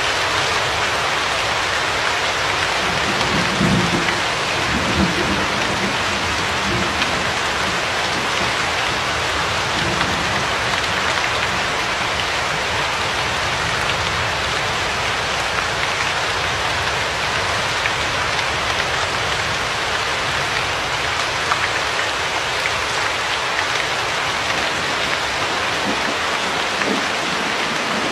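Steady, dense rain falling, with a low rumble of distant thunder a few seconds in.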